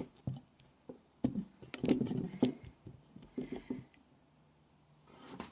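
Handling noises: scattered soft knocks, taps and rustles as a book and props are moved about by hand.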